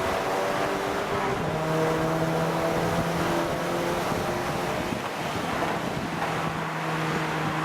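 Golf 6 GTI's turbocharged 2.0 TFSI four-cylinder engine, tuned to about 300 PS, running at a steady pitch over a haze of noise, heard through a phone's microphone.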